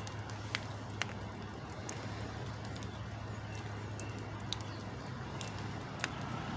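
A heavy truck's engine idling steadily, heard as a low, even hum, with a few sharp clicks scattered through.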